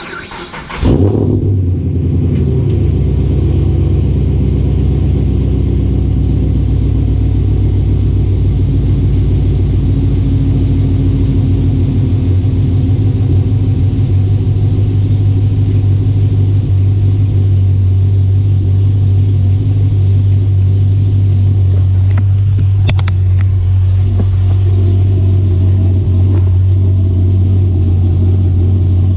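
Camaro SS's 6.2-litre LS3 V8, breathing through long-tube headers and a 3-inch true dual exhaust with X-pipe, cranking and firing up about a second in with a loud flare, then settling into a steady, deep idle for its first startup on the new exhaust.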